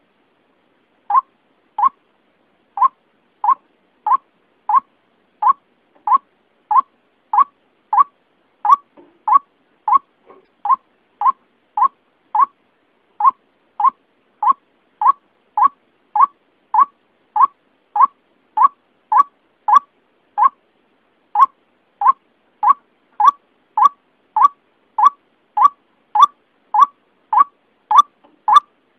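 White-breasted waterhen call played as a trapping lure: a steady series of short, clipped notes, about one and a half a second, each pitched near 1 kHz, with a couple of brief pauses.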